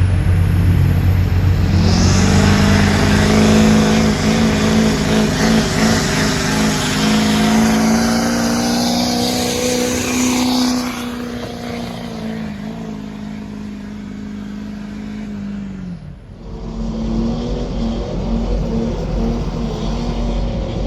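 Diesel pickup truck engine revving up about two seconds in and held at high, steady revs under full throttle during a sled pull, then cut off abruptly about sixteen seconds in. Another engine runs steadily after that.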